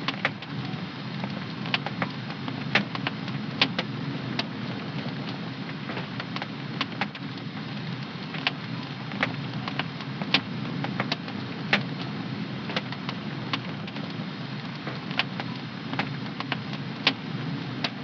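Home fireplace fire crackling: irregular sharp pops and snaps, a few each second, over a steady low rush of burning.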